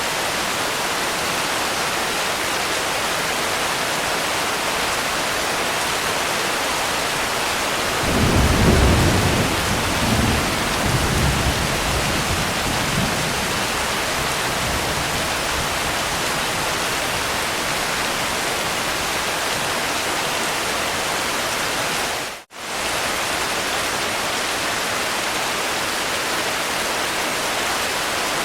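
Steady heavy rain hiss, with a low roll of thunder rumbling for several seconds about a third of the way in. The sound drops out for a split second about three-quarters of the way through, then the rain resumes.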